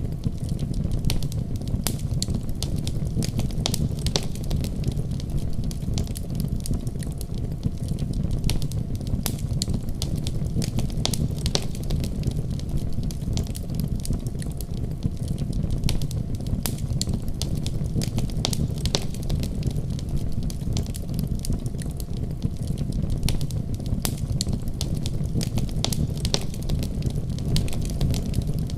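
Fire in a fireplace crackling: a steady low rumble of flames with many sharp pops and snaps scattered throughout.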